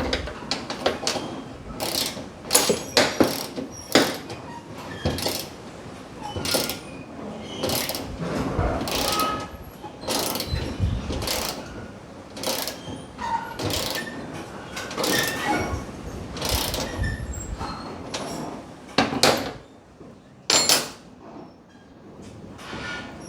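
Irregular metal clanks and knocks of hand tools and hardware while bolting parts onto a truck bed, a couple of dozen sharp hits, some briefly ringing, the loudest around two to four seconds in and again near nineteen and twenty-one seconds.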